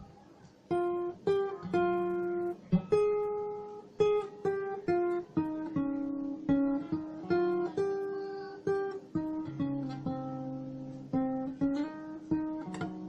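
Background music: acoustic guitar played in single plucked notes, a simple melody with each note ringing out and fading.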